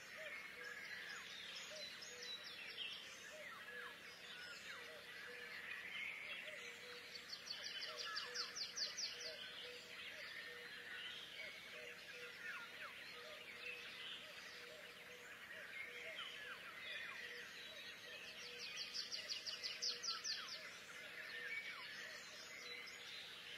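Many small birds chirping together, with a fast high trill heard twice, about a third of the way in and again near the end.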